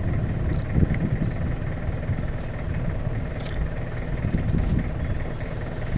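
Safari vehicle's engine idling steadily with a low, even hum.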